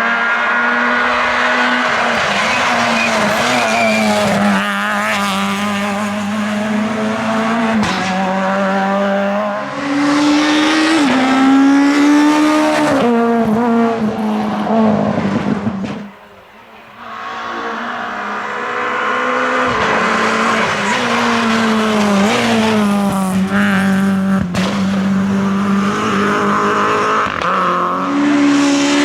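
Naturally aspirated Group F2000 rally car engines at full throttle, the engine note climbing hard and dropping back at each gear change. The sound falls away briefly about sixteen seconds in, then picks up again with another car revving.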